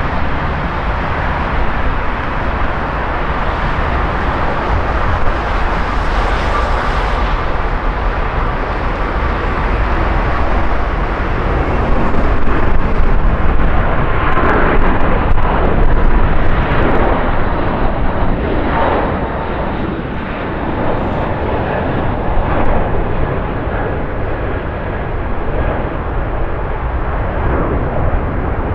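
Airbus A380's four jet engines at departure thrust, a steady jet roar that swells to its loudest about halfway through, crackling at its peak, then eases off as the airliner moves away.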